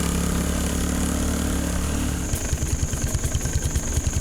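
Honda XR200's single-cylinder four-stroke engine running at a steady pitch, then a little over two seconds in settling into a slower, pulsing beat.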